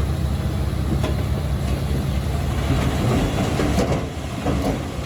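Komatsu D21P crawler bulldozer's diesel engine running steadily under load, with irregular metallic clanking and rattling from its steel tracks, loudest about three and a half to four seconds in.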